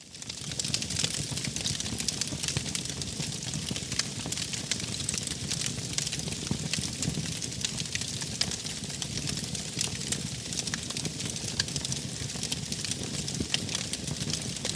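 Wood fire crackling, with many sharp little pops over a steady low rush of flames; it fades back in during the first half second.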